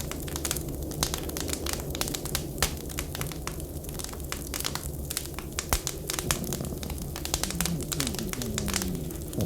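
Wood fire crackling and popping in a fireplace, a dense run of small sharp clicks over a steady low hum. A few low sliding tones come in near the end.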